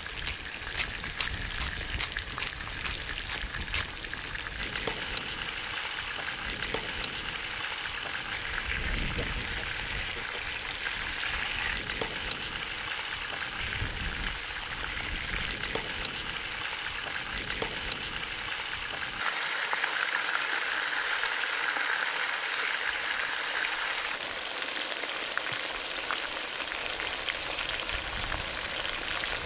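Chicken pieces sizzling steadily as they fry in oil in a pot over a wood fire. For the first few seconds a spice shaker rattles over the pot in quick, regular strokes, about three a second.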